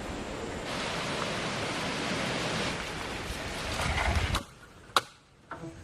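Strong wind rushing through forest trees, gusting with low rumbles, then cutting off abruptly about four seconds in; a single sharp click follows.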